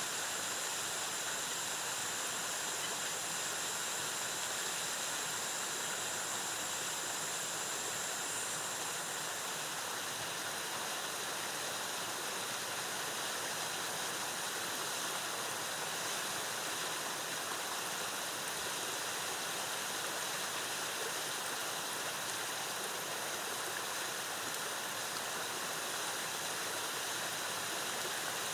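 Waterfall: a steady, even rush of cascading water. A faint high, steady tone sits over it and stops about nine seconds in.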